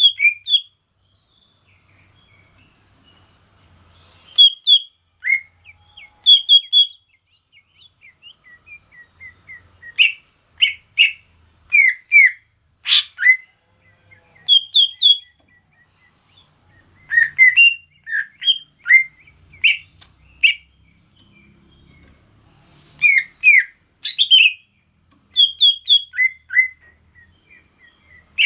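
Cucak ijo (green leafbird) calling in short, sharp whistled notes, mostly in quick runs of two to four, with pauses of a second or more between runs.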